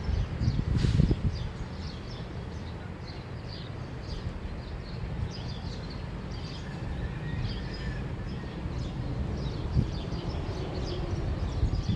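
Small birds chirping in quick, scattered calls over a steady low rumble of outdoor background noise.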